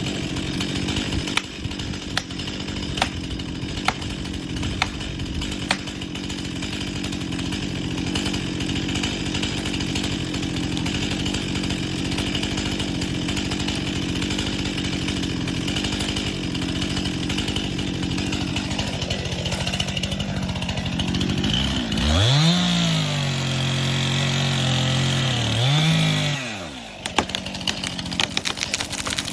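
Chainsaw engine running at a low, steady speed with crackling ticks. About 22 seconds in it is revved sharply; the pitch dips while held, as under load in a cut, then rises again and falls back to low speed near the end.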